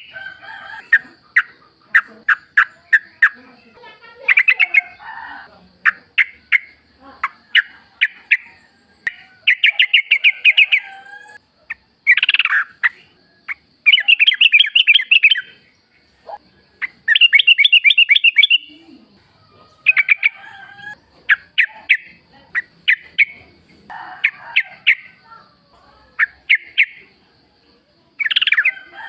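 Yellow-vented bulbuls (trucukan) calling in the wild: a run of short sharp notes and quick repeated chattering phrases, broken by short pauses. A faint steady high tone runs underneath.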